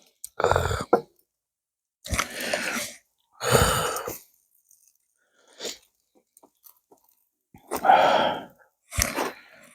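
A man's mouth and breath sounds after a bitter drink: five short, breathy exhales with chewing, and a few faint clicks in the pauses.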